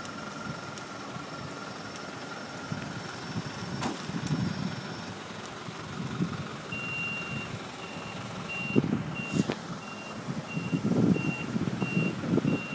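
An electronic warning beeper sounds a single high tone, on and off a little more than once a second, starting about halfway through. Low rustling and handling noise runs beneath it, with two sharp clicks.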